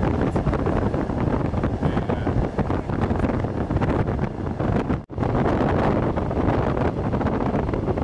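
Steady rumble and rush of a moving passenger train, mixed with wind noise. It cuts out for an instant about five seconds in.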